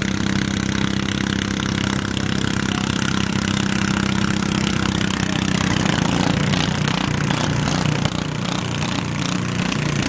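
Garden tractor engine running steadily; about six seconds in its note turns rougher and less even.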